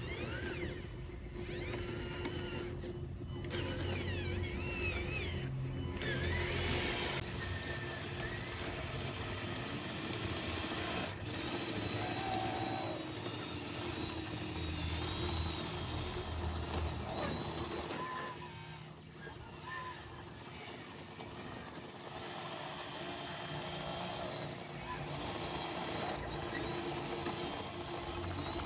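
Radio-controlled construction machines working: the whine of their electric motors and hydraulic pumps rising and falling in pitch as they move, over a steady hum, with a few sharp clicks.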